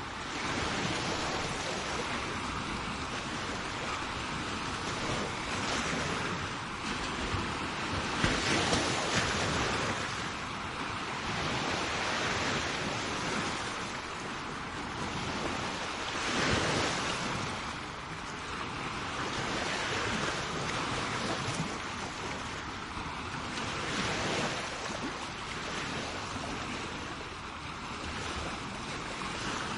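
Sea waves breaking and washing up a shore, a steady surf rush that swells and eases every few seconds, with wind buffeting the microphone.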